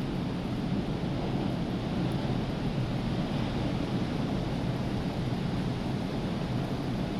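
Rough surf from a hurricane-stirred sea, a steady dense rush of breaking waves without pauses, mixed with wind on the microphone.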